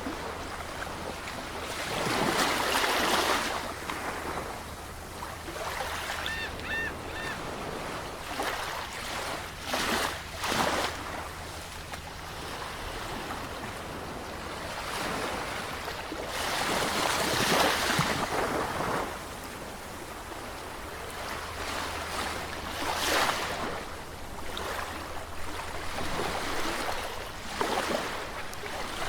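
Sea waves washing in, the surf swelling loudest every few seconds. About six seconds in comes a brief faint high chirp, repeated three or four times.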